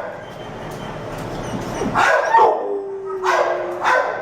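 A dog barking twice in a shelter kennel, about two seconds in and again about three and a half seconds in.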